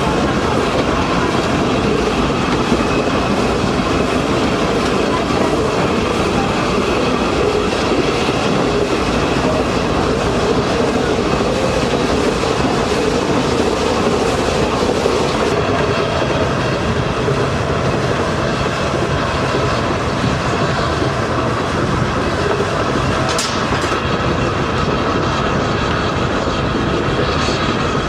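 Train running along the rails: a steady rumble with wheel clatter.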